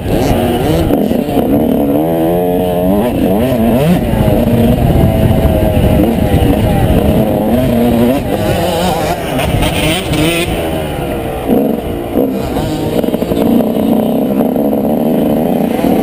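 Two-stroke motocross bike engine, a 125cc single, revving hard, its pitch rising and falling again and again as the throttle opens and closes.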